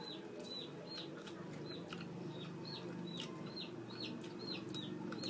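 Baby chicks peeping continually, short high falling peeps at about three a second, over a low steady hum.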